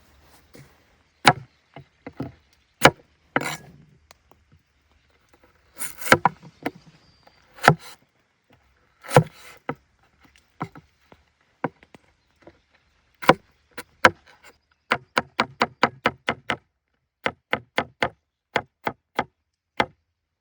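A blade chopping into wood: loud, sharp strikes, first spaced irregularly, then about two-thirds of the way in a quick even run of about four a second.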